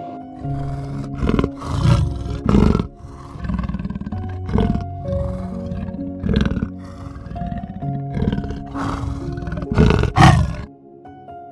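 Gentle background music, over which a large animal gives about eight loud, deep, rough calls, the strongest pair near the end.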